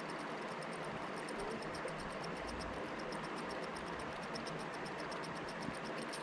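Spinning fishing reel being cranked to retrieve a spinner lure, giving a rapid, even ticking that stops near the end, over the steady rush of a river.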